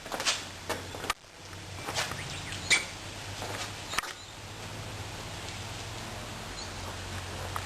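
A few faint bird chirps over a steady low hum, with scattered sharp taps and clicks in the first few seconds.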